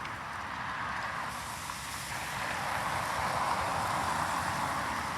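Road traffic: a car passing, its tyre and engine noise a steady hiss that swells to its loudest midway and fades toward the end.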